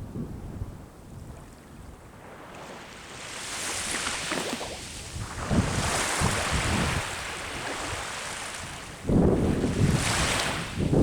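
Ocean waves breaking and washing up a shore, the surf swelling about two seconds in and a louder wave crashing near the end, with wind rumbling on the microphone.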